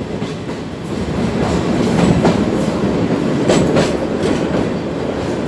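Sagano trolley train running along the track: a steady rumble of wheels on rails, with a few sharp clicks from the wheels passing over rail joints.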